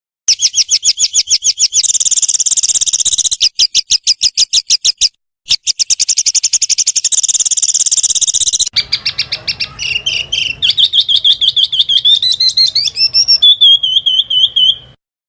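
A small songbird's rapid-fire 'tembakan' song, long fast runs of sharp repeated high notes. The runs break off abruptly twice and turn near the end into a lower, wavering trill.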